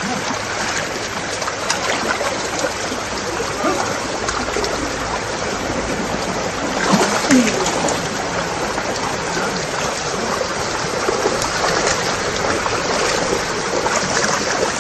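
Small river's water flowing and babbling steadily, with a brief louder splash-like disturbance about seven seconds in.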